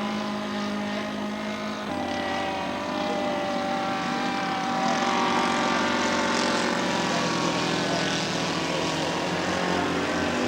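Engines of two radio-controlled model seaplanes flying together, a steady propeller drone with more than one engine pitch sounding at once. The mix of pitches shifts about two seconds in.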